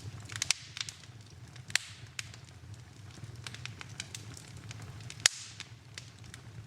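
Wood fire burning in a fireplace: irregular sharp crackles and pops over a steady low rumble, with the loudest pop about five seconds in.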